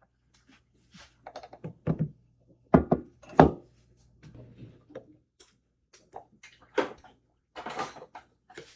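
Kitchen utensil clatter: measuring cups and containers knocked and set down on a counter, with scattered clicks and knocks and two louder thunks about three seconds in.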